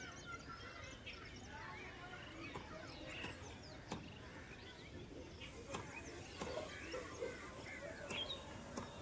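Faint outdoor chorus of birds chirping and calling, many short overlapping calls, with a few sharp clicks.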